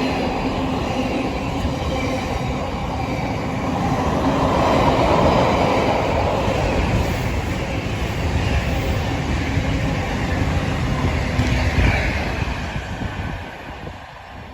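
A train passing through a station at speed: a loud, continuous rumble and rush of wheels on rail, swelling a few seconds in and then dying away near the end as it goes by.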